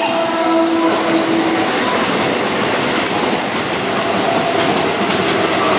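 Keihan 9000 series electric commuter train, a VVVF-inverter set, running past at close range: steady wheel-and-rail running noise with held tones early on and again near the end, and a few clicks from the wheels over rail joints about two to three seconds in.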